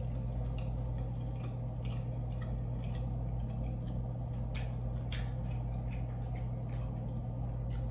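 Faint wet chewing and squishy clicks as fingers pick sausage and potatoes from a plastic container, with several sharper clicks in the second half, all over a steady low hum.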